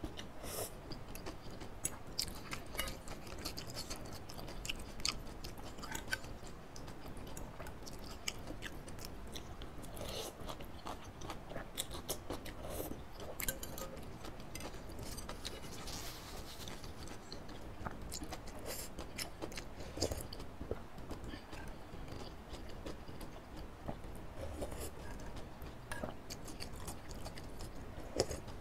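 Close-miked chewing of a mouthful of instant noodles, with many small, irregular wet mouth clicks.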